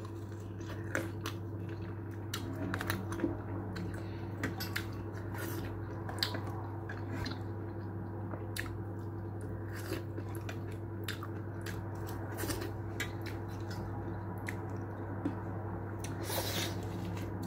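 A person chewing and biting chicken shawarma with her mouth: many small wet clicks and smacks scattered throughout, over a steady low hum.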